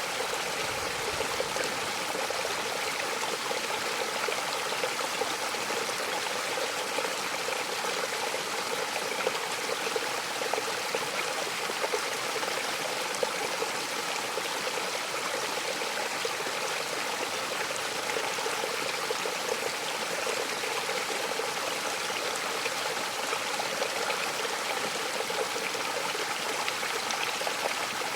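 Waterfall rushing steadily: an even, unbroken hiss of falling and splashing water with no change over the whole stretch.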